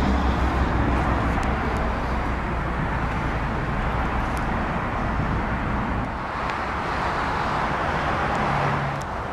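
Volkswagen Phaeton's 6.0-litre W12 engine idling steadily.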